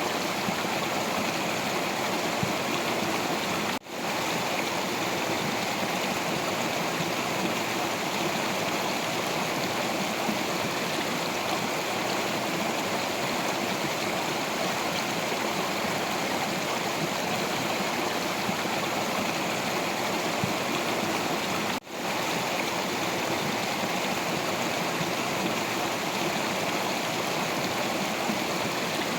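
Stream water running over rocks, a steady rush and babble. It cuts out for an instant twice, about four seconds in and again about twenty-two seconds in.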